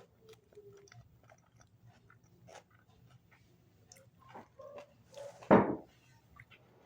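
Close-up chewing and biting of a sandwich, with small scattered crunches and clicks. A single loud thump comes about five and a half seconds in.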